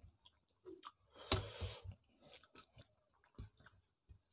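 Close-up chewing and mouth sounds of people eating fish curry and rice with their hands, with scattered small clicks and one louder half-second rush of noise about a second and a half in.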